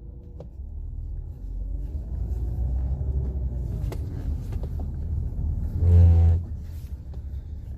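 Chevrolet Prisma being driven, with a steady rumble of engine and road heard from inside the cabin. Faint wavering tones come through while the steering is worked. This is the hydraulic power-steering noise that persists, put down to air bubbles in the system.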